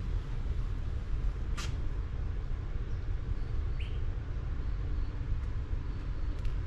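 Steady low rumble of a motorcycle ride, engine and wind on the microphone, with a few short high chirps; the loudest is a brief sweep falling in pitch about a second and a half in.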